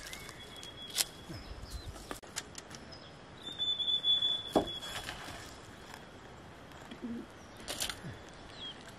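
Birds calling, loudest a clear whistled note held for about a second near the middle, followed by a quick falling call. A few sharp knocks, one early and a couple near the end, come from wood or bamboo being handled.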